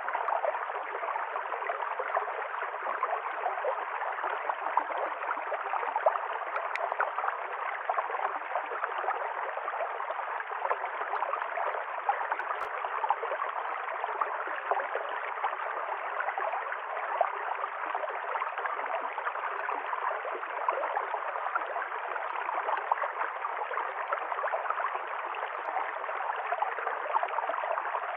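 River stream flowing over rocks: a steady babble of running water with small splashes and gurgles.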